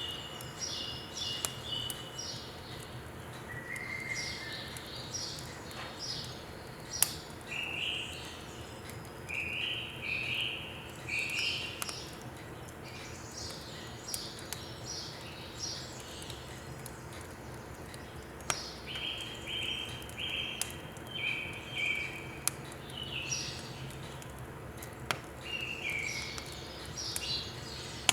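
Songbirds singing in repeated phrases of quick chirping notes, over a steady hushed background, with a few sharp clicks scattered through, the strongest about seven seconds in.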